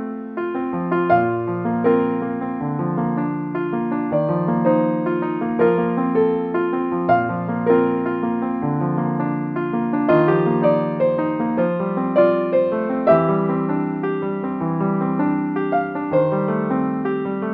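Background piano music: a slow melody of sustained notes over chords.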